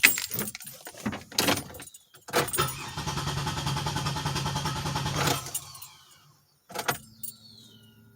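Keys rattling, then the 2007 Pontiac Grand Prix GT's engine is cranked by the starter for about three seconds without catching, a crank-no-start that he suspects lies in the fuel pump relay or its wiring. A knock follows, then a faint steady hum, the electric fuel pump running.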